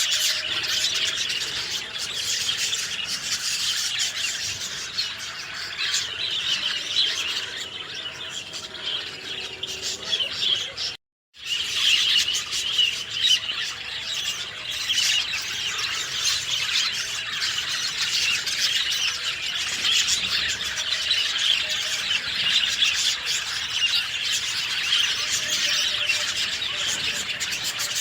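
Many small birds chirping densely over one another in a busy chorus. About eleven seconds in, all sound cuts out abruptly for about half a second, then the chirping resumes.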